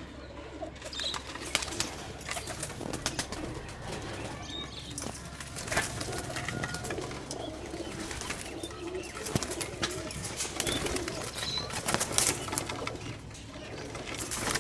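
Pigeons cooing in a low, warbling chorus, with irregular wing flaps and scuffles throughout.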